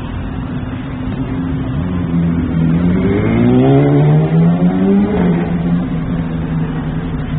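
A motor vehicle engine revving up: its pitch climbs for about three seconds, then drops back to a steady low running hum.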